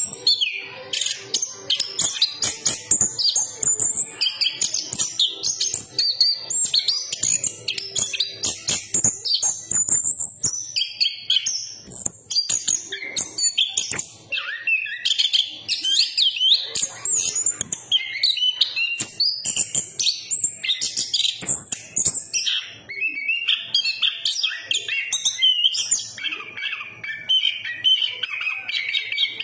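Chestnut-capped thrush (anis kembang) singing a long, unbroken song of quick, varied high twittering phrases.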